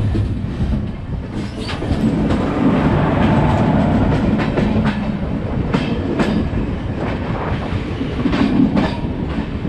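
Indian passenger train coaches running at speed, heard at an open coach door: a loud, steady rumble with the wheels clacking irregularly over rail joints.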